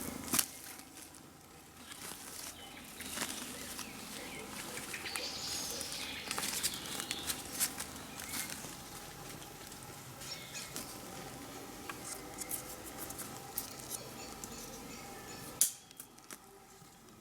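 Dry forest litter crackling and rustling in many short clicks, with birds chirping faintly in the background; a sharp click near the end, after which it goes much quieter.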